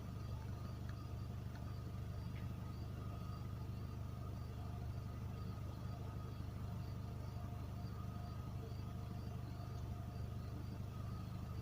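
Steady low engine-like rumble from a sound-equipped model diesel locomotive running on the layout, with faint steady tones and a light, regular ticking high up.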